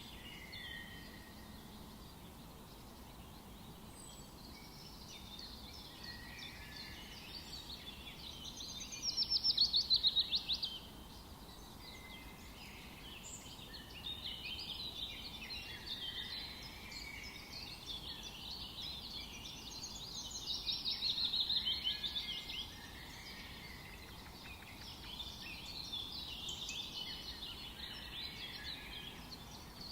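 Several songbirds singing together in a forest chorus of overlapping chirps and warbles over a faint steady background hiss. A louder rapid trill rings out twice, about a third of the way in and again about two-thirds of the way in.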